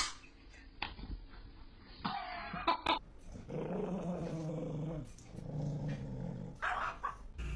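A pet animal growling: a low growl held for about a second and a half, then a second, shorter growl.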